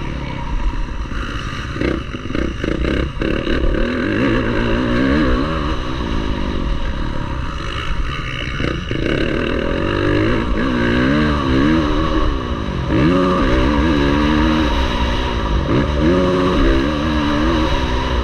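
Motocross bike engine at race pace, revving up and dropping back again and again as the rider accelerates and shifts gear. A few sharp knocks come about two to three seconds in.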